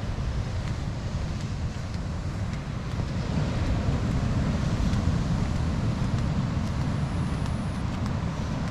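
Wind buffeting the microphone, a steady low rumble that rises and falls a little.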